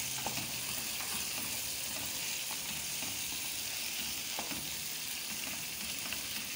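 Mutton karahi masala sizzling steadily in a nonstick wok over high heat as it is fried down, while a wooden spatula stirs it with a few light scrapes against the pan.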